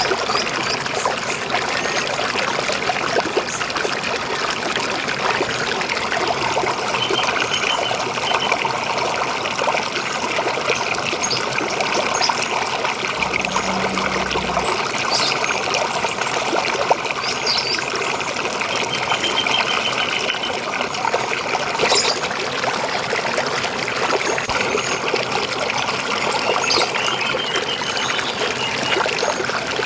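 River water flowing and trickling steadily, with a few faint, brief bird chirps and trills now and then.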